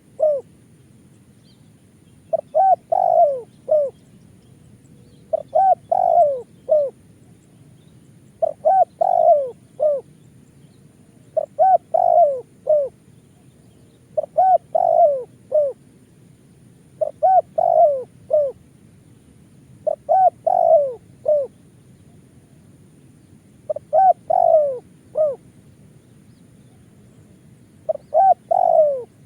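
Spotted dove (tekukur) cooing, repeating its short phrase of several notes ending in a longer note about every three seconds.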